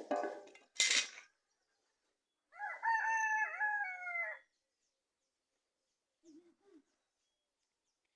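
A rooster crows once, a pitched call of about two seconds that slides and dips, beginning about two and a half seconds in. It is preceded by a short hissing burst about a second in, and two brief faint low sounds follow near the end.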